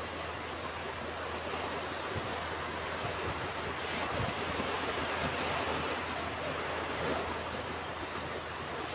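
Ocean surf washing onto a beach, a steady rush of waves that swells and eases gently.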